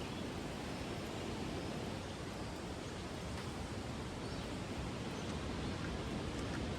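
Steady wind noise rumbling on the microphone outdoors.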